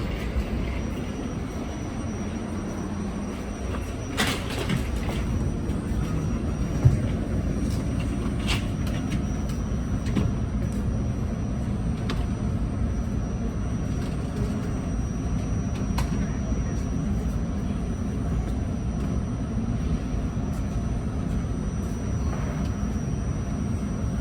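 R68 New York City subway car running along the track, heard from inside: a steady low noise with a thin high steady tone and a few sharp clicks spread through the ride.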